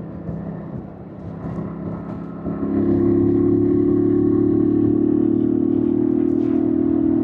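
Yamaha MT-07's 689 cc parallel-twin engine under way. For the first couple of seconds it runs lightly and unevenly; about two and a half seconds in the throttle opens and the engine gets much louder, holding a steady note.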